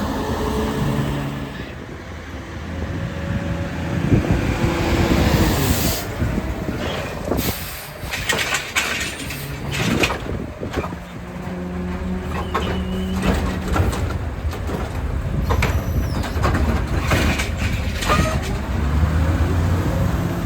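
Heil Rapid Rail side-loader garbage truck on a CCC chassis at work: the engine revs up and down in several rising and falling sweeps. There is a short hiss about six seconds in, then a run of sharp clanks and knocks, with more knocks a few seconds before the end.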